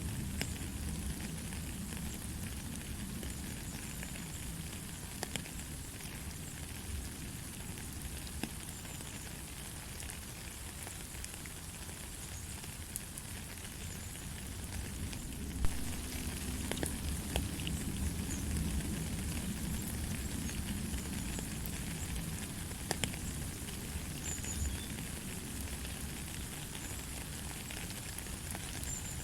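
Steady light rain: an even hiss with scattered sharp ticks of single drops, and one louder tap about halfway through.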